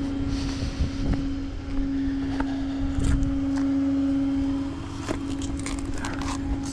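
Tow truck running with a steady hum and low rumble, with scattered light clanks and clicks over it.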